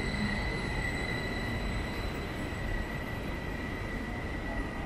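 Train running at a station: a steady low rumble with a high-pitched whine held on one pitch throughout.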